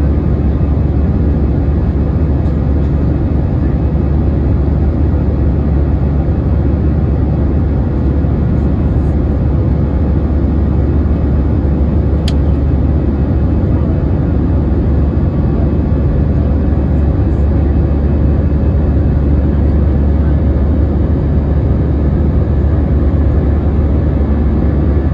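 Steady engine and airflow noise inside the cabin of an Airbus A321 jet airliner, a loud, even drone strongest in the low end with a faint steady hum above it. A single sharp click sounds about halfway through.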